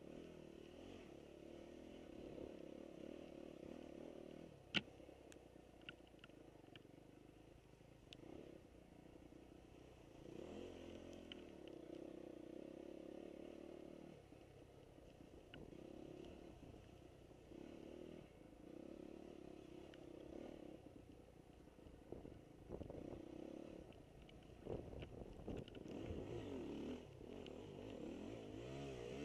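Faint dirt-bike engines on a motocross track, their pitch rising and falling as the throttle opens and closes, swelling and fading in turn. A single sharp click about five seconds in.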